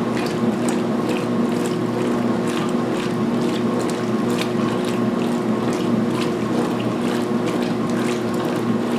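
2016 Speed Queen top-load washer in high-speed agitation on a load of towels: a steady motor and transmission hum with regular clicks about twice a second as the agitator reverses.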